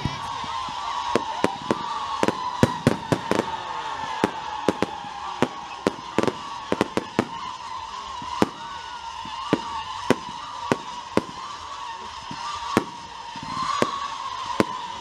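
Fireworks display: a rapid, irregular string of sharp bangs and crackles from bursting aerial shells, over a steady, wavering high tone.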